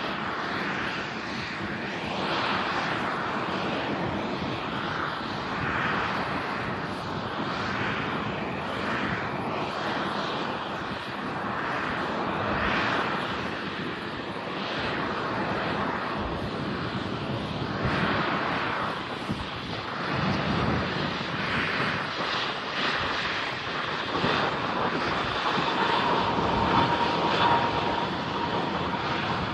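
An airliner's engines running: a steady, wide rumble that swells and fades in waves every second or two.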